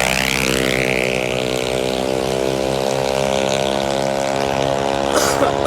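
Tuned CVT scooter engine running at a steady pitch, with a high whine easing off and settling in the first second.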